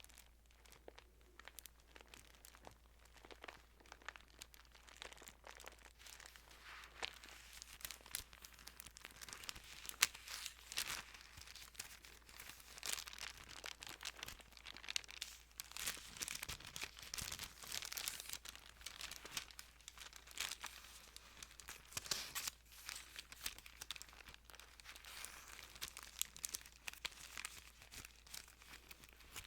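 Thin Bible pages being handled and turned: a soft, papery rustle full of crisp little crinkles and clicks.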